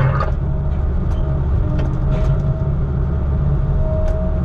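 Engine of a piece of logging equipment running steadily, a loud low rumble with a faint thin whine that comes and goes above it.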